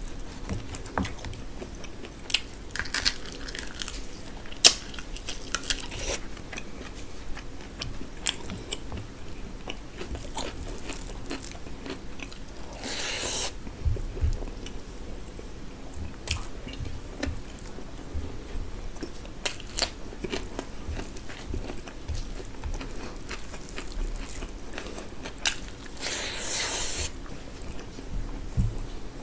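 Close-up chewing and mouth smacking of a person eating rice and curry by hand, with many short wet clicks. Twice there is a longer hiss lasting about a second.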